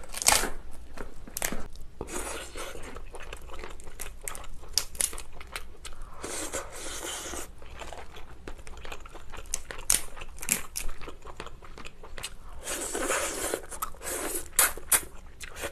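Cooked crab shell cracking and crunching as it is snipped with scissors and broken apart by hand, mixed with close-miked chewing of the crab meat. The sound comes as many sharp cracks and clicks and several longer crackling stretches.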